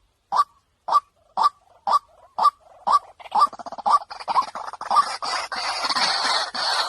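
White-breasted waterhen calls: a single harsh note repeated about twice a second, then from about halfway a dense, continuous chattering chorus builds up.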